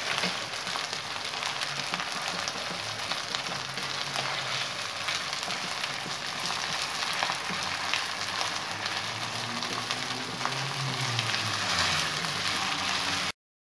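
Qeema (minced meat) frying with sliced onions and green chillies in a nonstick wok, sizzling and crackling steadily as a plastic spatula stirs it. The sound cuts off abruptly near the end.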